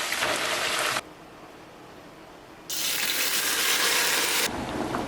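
Steady rushing noise of running water. It cuts off abruptly about a second in, comes back louder near the three-second mark, and gives way to a quieter, lower background about four and a half seconds in.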